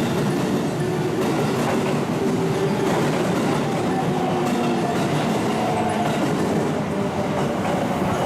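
Electric train running along the station platform, a steady loud rumble with wheels clattering over the rail joints.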